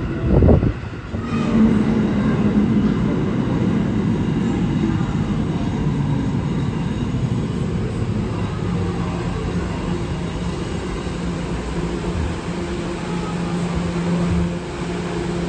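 New York City subway train running in the station, a steady loud rumble of wheels and motors, with a brief loud knock about half a second in.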